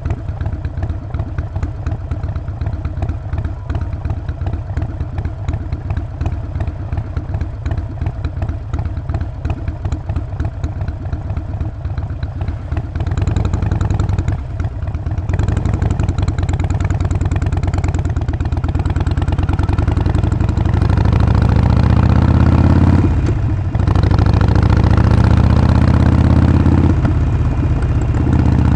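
Harley-Davidson Sportster Forty-Eight's 1200 cc air-cooled V-twin running with an uneven, pulsing beat at low speed for about the first half. It then gets louder and pulls away, the pitch rising through the gears, with brief drops for gear changes about three quarters of the way in and again near the end.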